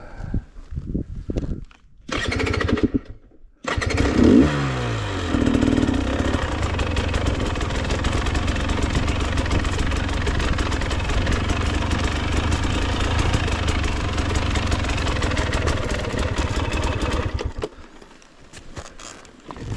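Dirt bike engine starting: a brief catch about two seconds in that dies at once, then it fires about three and a half seconds in, revs up once and runs steadily. It drops away sharply about two seconds before the end.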